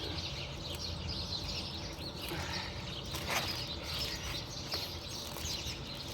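Birds chirping steadily in the background, with one short sharper sound a little over three seconds in.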